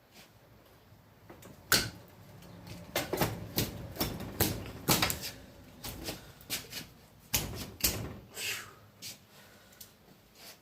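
Ratchet strap's metal buckle and webbing clicking and clanking as it is yanked against a string anchor: an irregular run of sharp clicks and knocks, thickest in the middle. The strap is wound so tight on its spool that it will not release.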